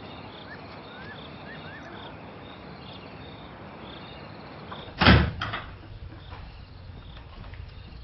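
A door slams shut about five seconds in, followed by a lighter knock, over crickets chirping steadily.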